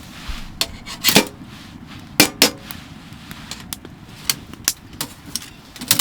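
A series of sharp knocks and clatters of hard objects being handled, the loudest about a second in and two more in quick succession a little after two seconds, with lighter clicks between.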